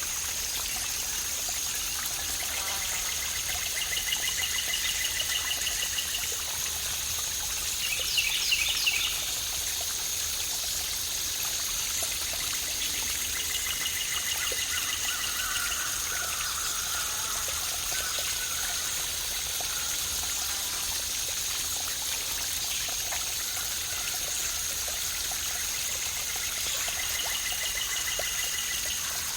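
Running water of a waterfall and stream, a steady rushing wash. Short trilling animal calls come three times, and a brief burst of chirps about eight seconds in.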